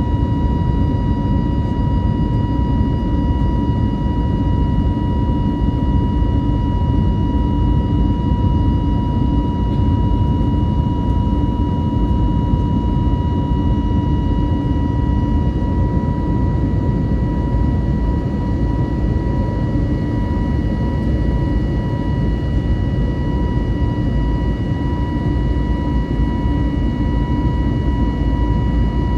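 Cabin noise inside an Airbus A320neo with CFM LEAP-1A turbofans: a steady low roar of engine and airflow, with a steady high whine on top.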